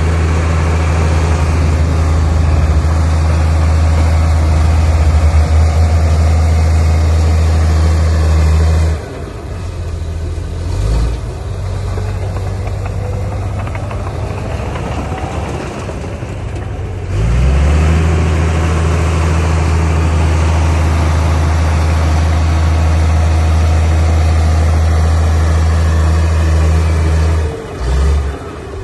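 Heavy diesel engine of earthmoving equipment running hard at a steady pitch. It eases off about a third of the way in, revs back up with a rising pitch a little past halfway, and dips briefly near the end.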